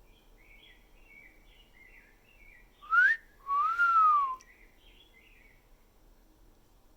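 A person's two-part wolf whistle, the cue the parrot is being asked to copy: a short rising note, then a longer note that rises a little and falls. Faint songbird chirping runs under it for the first five seconds or so.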